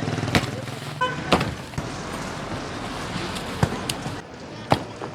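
A steady engine rumble with four sharp knocks spread across it and a brief pitched tone about a second in.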